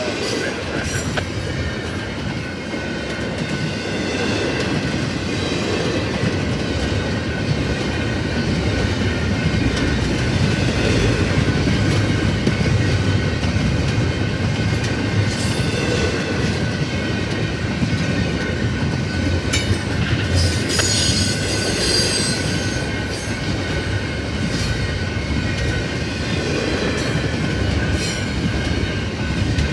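Norfolk Southern freight train rolling past, a steady rumble and clatter of cars and wheels on the rails, with a burst of high wheel squeal about twenty seconds in.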